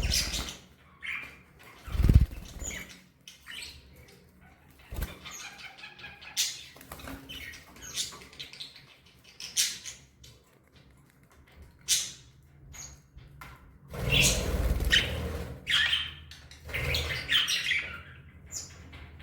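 Budgerigars chirping in short scattered calls, with bursts of wing flapping. The loudest bursts come about two seconds in and for about a second and a half near the end.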